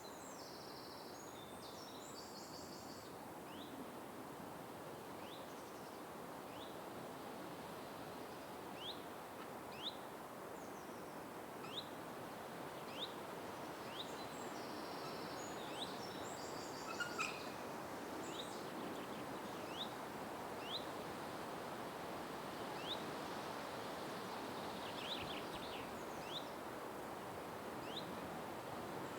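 Outdoor ambience: a steady background hiss with a bird giving short, high chirps roughly once a second, and twice a brief higher buzzy trill.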